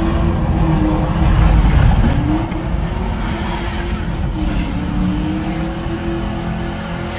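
Ford Mustang engine revving hard during a drifting run, its pitch rising and falling, loudest about one to two seconds in, then holding steadier.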